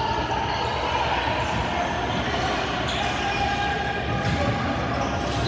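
Basketball bouncing on a gym court during a game, several separate thuds over a continuous echoing din of players and spectators.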